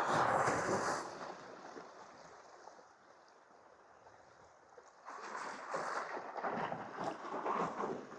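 Seawater surging and splashing against shore rocks, in two surges: a short one at the start and a longer one from about five seconds in.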